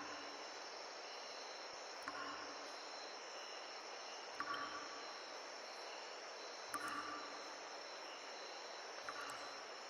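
Forest stream running under a steady chorus of insects, with a short, slightly louder sound recurring about every two seconds.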